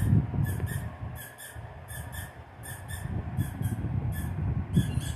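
Squeaky dog toys squeaking over and over, about two or three quick high squeaks a second, with a low rumbling noise underneath.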